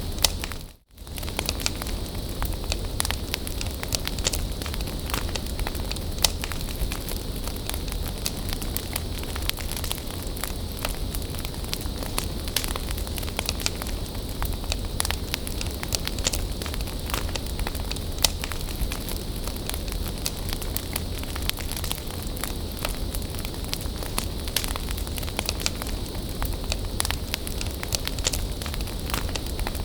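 Wood bonfire burning, crackling and popping steadily with frequent sharp snaps. The sound cuts out briefly about a second in.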